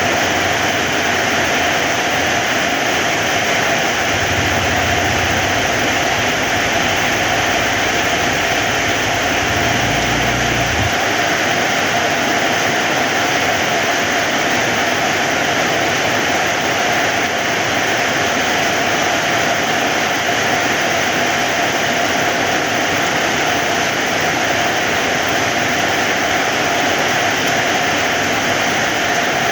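Heavy rain falling steadily in a dense, even hiss. A low hum sits under it for the first ten seconds or so, then stops.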